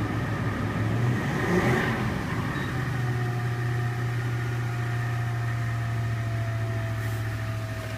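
2005 Toyota Tundra's engine idling steadily just after a cold start at about -1 degree, a little uneven for the first couple of seconds. A faint whine slowly drops in pitch over the last five seconds.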